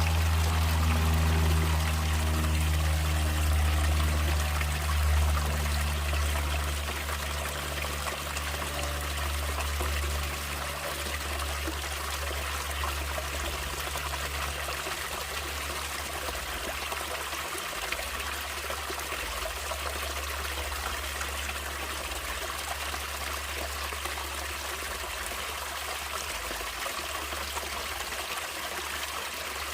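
Natural stream water trickling and flowing steadily. Low sustained music tones fade out over the first several seconds.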